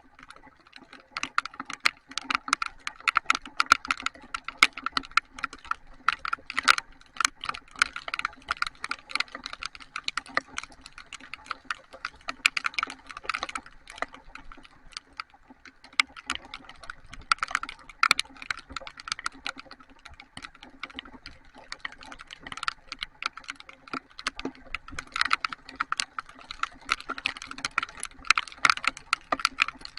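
Heavy rain striking a hard surface close to the microphone: a dense, irregular stream of sharp ticks that never lets up, with a steady low hum underneath.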